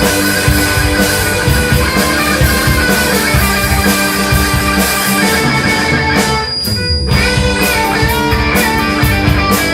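Rock band playing, with guitar and drum kit; the cymbals and high end drop out briefly about six and a half seconds in before the full band comes back in.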